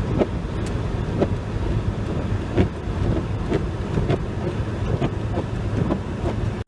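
Car running on a snow-covered road, heard from inside the cabin: a steady low rumble of engine and tyres with scattered light clicks and knocks.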